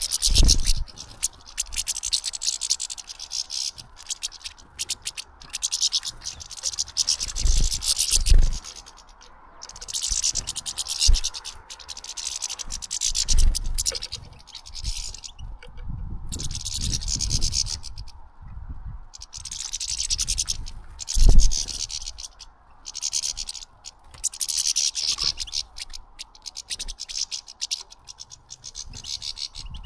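Scratching and rustling of birds feeding at a seed feeder, in repeated bursts a second or two long with short gaps, with a few low thumps, the loudest about two-thirds of the way through.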